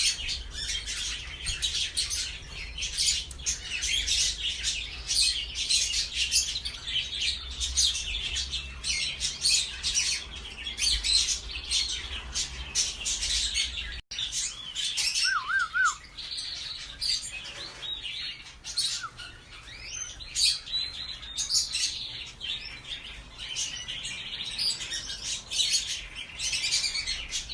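Many small cage birds, canaries among them, chirping and twittering rapidly and continuously in an aviary, with a steady low rumble underneath during the first half.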